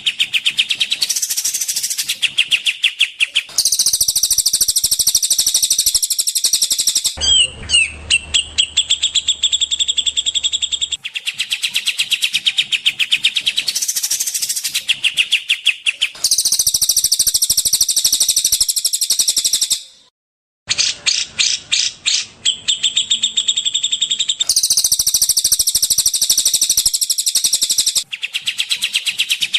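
Looped masteran recording of small songbirds, mixing cililin, cucak jenggot and kapas tembak song: fast, high-pitched trills and chattering in blocks that cut in and out abruptly. The same sequence of phrases repeats in a loop, with a brief silence about two-thirds of the way through.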